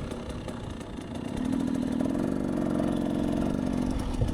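Dirt bike engine pulling under load on a climb: the engine note rises about a second and a half in, then holds a steady pitch.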